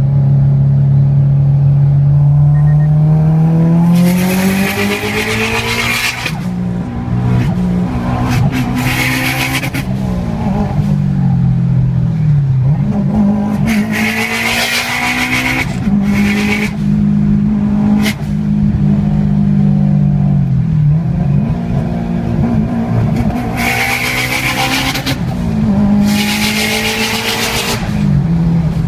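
Turbocharged Subaru flat-four engine with an HKS turbocharger, revving up and down over and over. About six loud rushes of turbo air hiss, each lasting one to two seconds, ride over the engine note.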